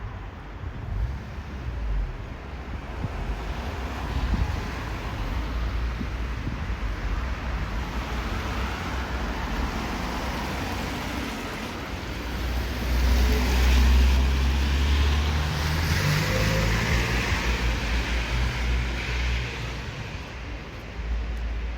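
City street traffic: motor vehicles running by, with one passing close and loudest about two-thirds of the way through, then fading.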